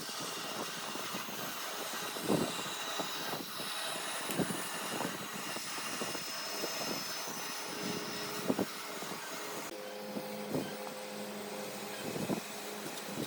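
Workshop sounds: scattered knocks and taps of wood being handled, over a steady background noise, with a faint steady hum coming in about two-thirds of the way through.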